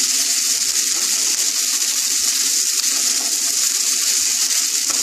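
Boiled fusilli pasta and chopped vegetables sizzling steadily in oil in a wok-style pan as a wooden spatula stirs and tosses them.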